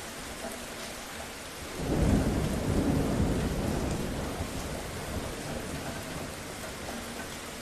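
Steady rain falling, with a low roll of thunder swelling up about two seconds in and fading away over the next few seconds.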